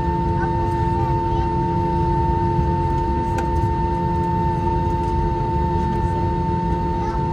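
Cabin noise of an Airbus A321-231 taxiing on one engine: a steady low rumble with constant hums and a whine.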